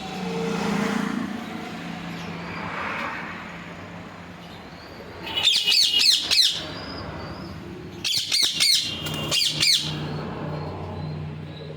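Pet parrot calling in two bursts of rapid, shrill, repeated chirping screeches, one about five seconds in and another about eight seconds in, over a steady low hum.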